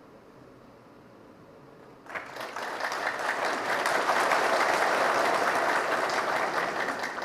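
Audience applauding. The clapping starts about two seconds in, builds over a second or so, holds steady, and stops suddenly near the end.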